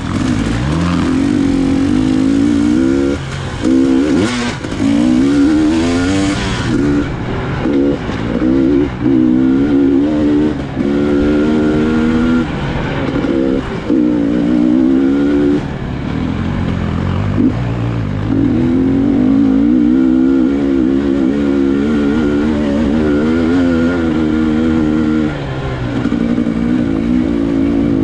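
Enduro motorcycle engine being ridden, its revs rising and falling over and over with brief throttle cuts. There are short rushes of noise about four and six seconds in.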